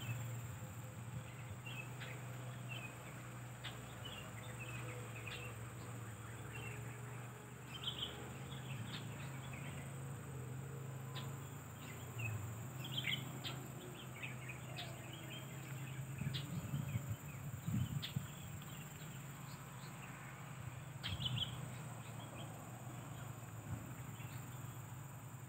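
Wild birds, long-tailed shrikes among them, giving short scattered chirps and clicks, a few louder than the rest. A steady low hum runs underneath.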